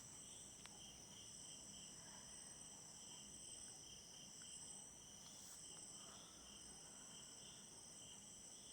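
Faint insect chorus in a garden: a steady, rapidly pulsing trill over a higher continuous shrill whine.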